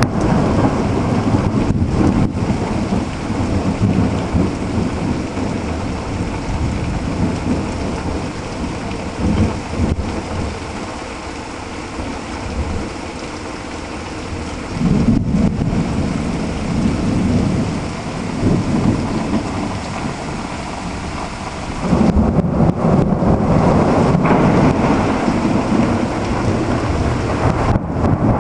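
Heavy thunderstorm: steady pouring rain with rolling thunder rumbling, swelling about halfway through and again in the last few seconds.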